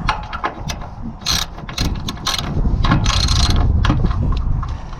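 Ratchet wrench clicking in short runs as bolts are backed out of a loose RV awning bracket, with wind buffeting the microphone.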